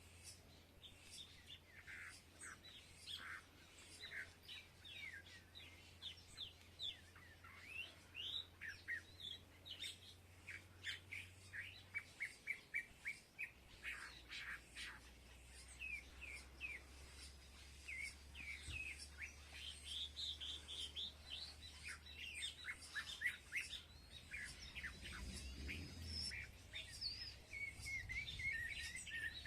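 Small birds chirping and calling, many short, quick notes overlapping one another, busiest in the middle and near the end.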